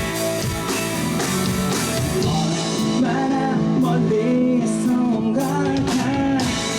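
Rock band playing live: electric guitar and drum kit, with a sung vocal line coming in about halfway through.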